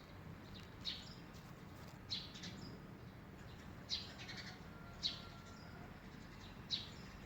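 A bird calling with short, high chirps, about six of them, roughly one every second or so, over a faint background hiss.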